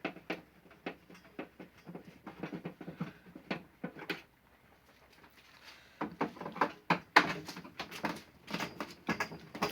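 Screwdriver working screws out of a plastic air cooler casing: irregular clicks, ticks and scrapes of metal on plastic, sparse at first, thinning out about four seconds in, then busier and louder from about six seconds in.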